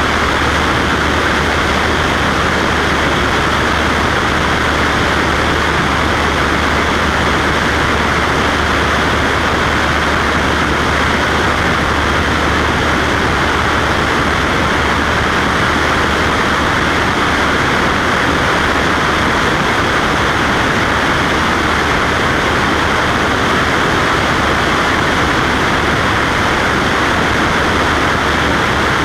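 Cessna Skywagon's piston engine and propeller in flight, a loud, unbroken drone with a constant low hum.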